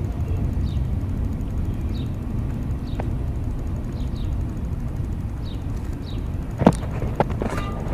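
A slow-moving train rumbling steadily along the track, with faint short high squeaks every second or so and a few sharp clanks near the end.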